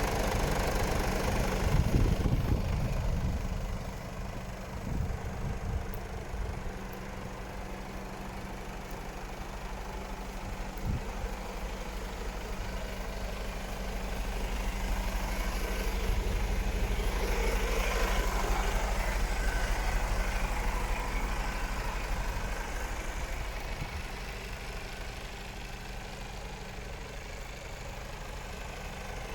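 Mercedes-Benz Actros 1843 truck's diesel engine idling steadily, louder in the first few seconds and again in the middle.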